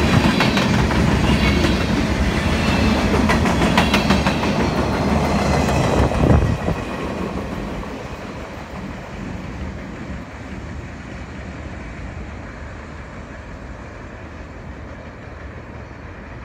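Freight cars of a long CSX mixed freight train rolling past, steel wheels rumbling with sharp knocks over the rail. The loudest knock comes about six seconds in, as the last cars go by. After that the rumble fades steadily as the train moves away.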